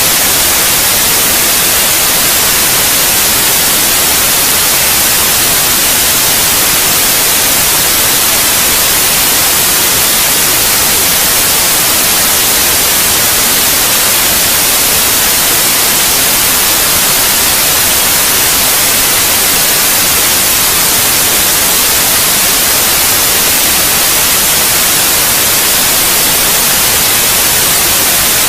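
Steady white noise for lulling a baby to sleep: an even, unchanging hiss, strongest in the highs.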